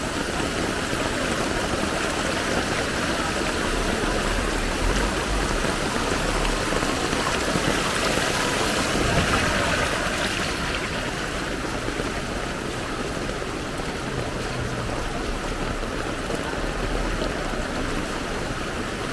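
Fast-flowing floodwater rushing along a street: a steady rushing noise that eases slightly about ten seconds in.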